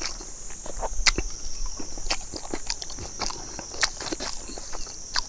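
Close-up eating sounds of a person chewing rice and roasted chicken: irregular wet clicks and lip-smacks. A steady high hiss runs underneath.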